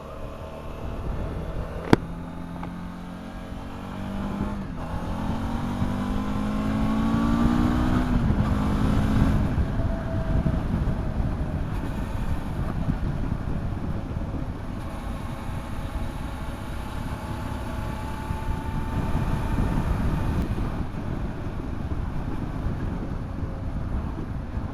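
Motorcycle engine pulling hard, its pitch rising steadily for several seconds, then a steady rush of wind and road noise as the bike rides on. A single sharp click sounds about two seconds in.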